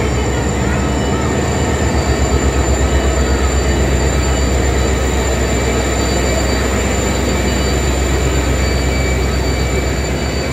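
Diesel locomotives hauling a container freight train past close by: a loud, low engine drone that pulses rapidly, over steady wheel-and-rail noise and a thin high whine.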